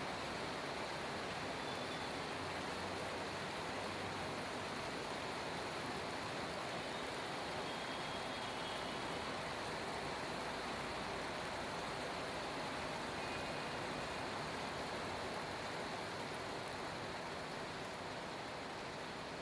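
Heavy monsoon rain falling: a steady hiss that fades slightly near the end.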